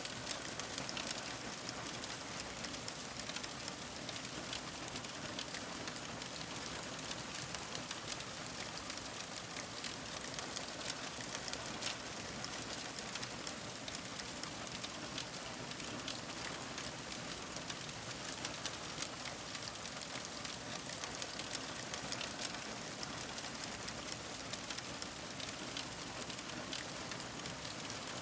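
Fire crackling: a steady hiss dotted with many small pops and snaps throughout.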